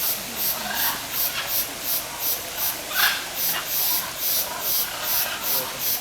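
A steady rhythm of short, very high hissing pulses, about three a second, under a short parrot squawk about three seconds in and another at the very end.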